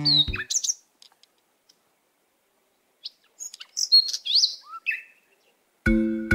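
Birds chirping: a few short whistled calls, some sliding up or down in pitch, after a couple of seconds of near silence. Background music comes back in near the end.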